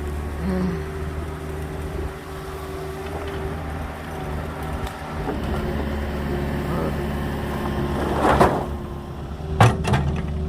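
Small agricultural excavator's engine running steadily. About eight seconds in comes a loud clatter, followed shortly by two sharp knocks.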